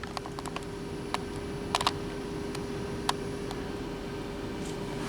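Frozen food packages being handled in a portable fridge-freezer: a few light clicks and crinkles of plastic packaging over a steady low hum.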